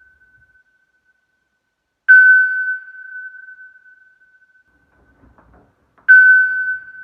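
A clear, single-pitched bell-like ding, struck twice about four seconds apart, each strike ringing out slowly.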